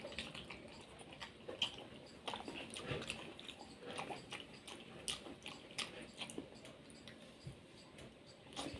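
Close-miked chewing and biting of soft, jelly-like palm-fruit kernels (ice apple): faint wet mouth sounds with many small, irregular clicks.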